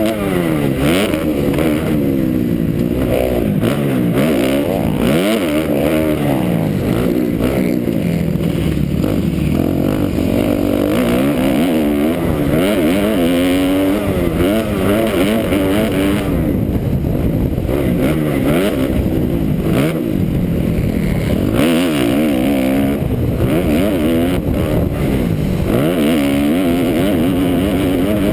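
2009 Kawasaki KX250F's four-stroke single-cylinder engine being ridden hard, its pitch climbing and dropping every second or two with throttle changes and gear shifts.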